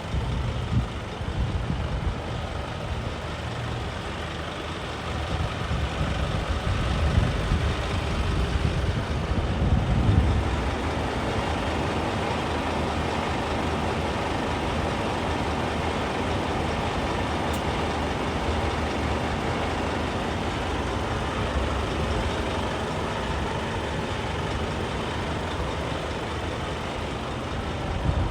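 Scania P280 truck's five-cylinder diesel engine running. It is uneven for about the first ten seconds, then settles into a steady run.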